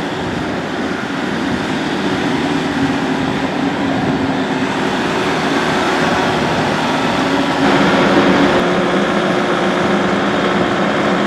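The 2015 Kubota MX5200's four-cylinder turbo diesel engine running steadily, getting louder about eight seconds in.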